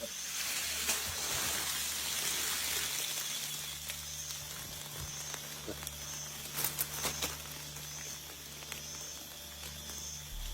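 Outdoor ambience: a steady high hiss with a short high chirp repeating roughly once a second, under a low hum, and a few sharp clicks about seven seconds in.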